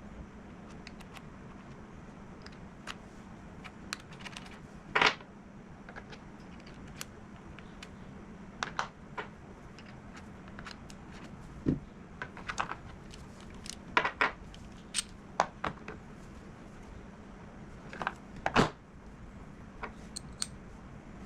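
Screwdriver bits and attachments being handled: scattered light clicks and metallic clinks, a few of them louder, over a steady low hum.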